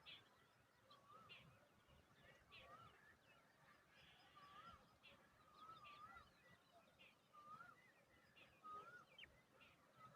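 Faint bird calls: a short wavering call repeated about once a second, with quick higher chips between.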